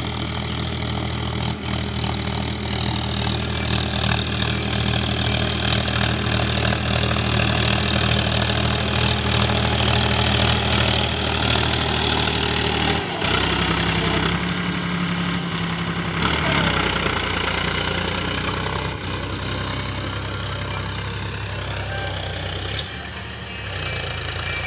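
Powertrac Euro 50 tractor's diesel engine running steadily. Its note shifts about halfway through and holds at the new setting.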